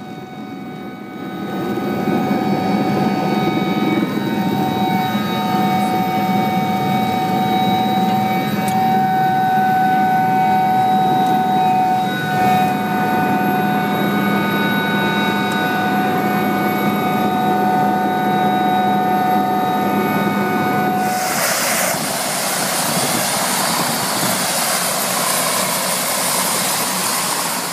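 Turbine helicopter on the helipad just after landing, heard from the cabin: engines and rotor running with a steady whine of several tones over a rumble. About three quarters of the way through the whine cuts out suddenly and a loud, even hiss takes over.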